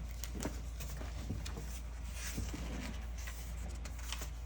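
Scattered light clicks and taps of plastic Lego pieces being handled and pressed together, about six in all, over a steady low hum.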